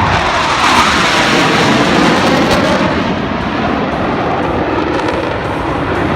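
Blue Angels jet aircraft engines: a loud, continuous jet noise whose pitch slowly sweeps, as from jets moving relative to the listener.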